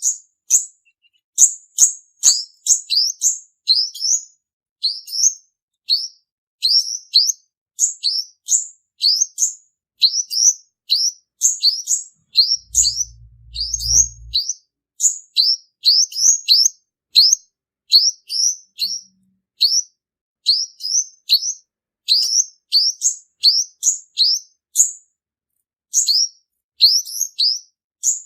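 Male olive-backed (purple-throated) sunbird singing: a fast, unbroken run of short, high-pitched sweeping chirps, several a second. A brief low hum comes in about halfway through.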